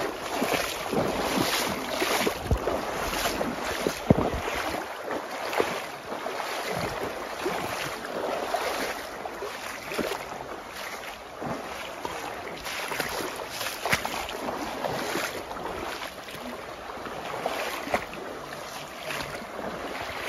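Steady rush of river water mixed with wind buffeting the microphone, with frequent irregular soft knocks and rustles.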